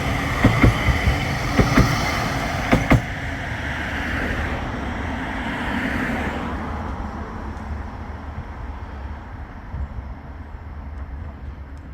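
Bombardier Flexity 2 light-rail tram running on its rails, with several sharp knocks in the first three seconds. Its sound fades away from about six seconds in, leaving a low rumble.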